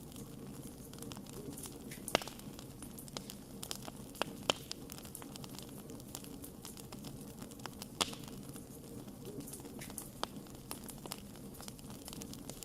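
Wood fire burning with a steady low rumble and irregular sharp crackles and pops, a few louder snaps standing out about two, four and a half, and eight seconds in.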